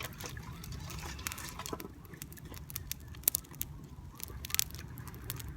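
Campfire wood crackling with irregular sharp pops, the loudest about three seconds in and a quick cluster a little later.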